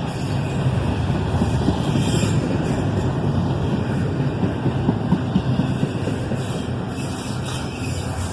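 Double-stack intermodal freight train rolling slowly past, a steady rumble of the cars on the rails with a few faint clicks.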